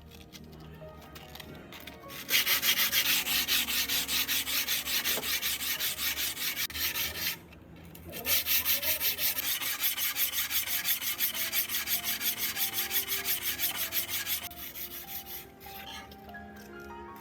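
Fast back-and-forth abrasive rubbing by hand, about four strokes a second, in two long runs with a short pause between them and a few softer strokes at the end. Quiet background music runs underneath.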